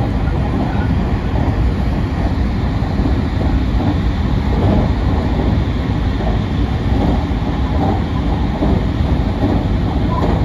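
Train running at speed, heard from inside the passenger car: a steady low rumble of wheels on rail with a faint clickety-clack.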